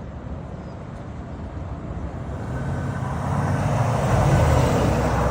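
Rezvani Vengeance SUV's engine running with a low steady hum, growing louder and peaking about four seconds in, then easing slightly, as the vehicle moves.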